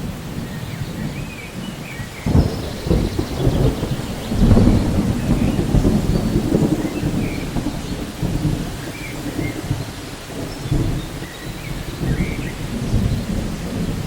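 Rolling thunder over steady rain in a rainforest, the rumble swelling about two seconds in and at its loudest a little later. Faint, short bird chirps come through at several points.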